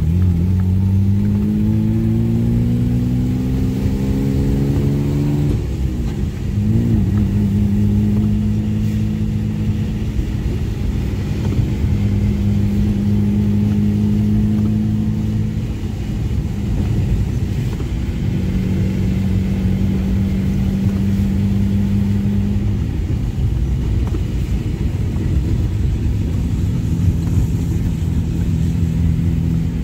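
Nissan Laurel C33 drift car's engine, heard from inside the cabin, under hard driving: the revs climb steadily for about five seconds, drop sharply, then hold fairly steady with a couple of brief dips.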